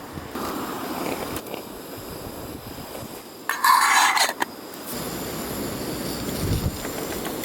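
Strong wind buffeting the microphone, with a loud, roughly one-second scrape of metal camp cookware about three and a half seconds in.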